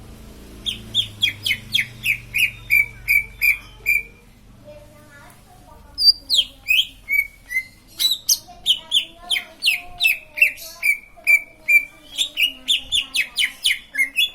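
A cucak ijo (leafbird) singing: phrases of quick, loud, sharply falling whistled notes, several a second, with a short pause about four seconds in before the song picks up again.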